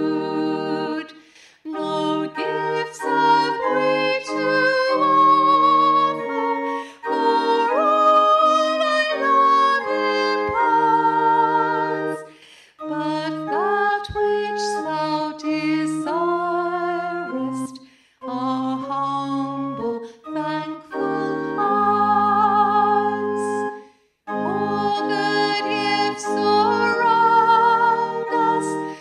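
A woman singing a hymn with vibrato, phrase by phrase, over held instrumental chords.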